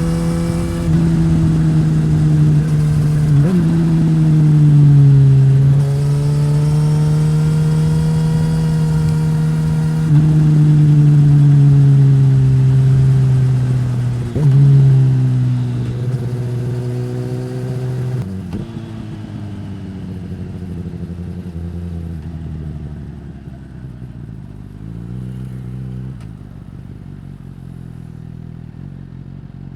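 2015 Suzuki GSX-S1000 inline-four running through a Yoshimura R-11 slip-on exhaust, pulling under load. The pitch climbs and then drops sharply several times, as at gear changes. After about 18 seconds it rolls off to low revs and runs quieter as the bike slows.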